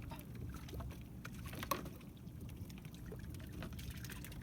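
Water lapping and trickling around a small fishing boat, with a few light knocks scattered through it.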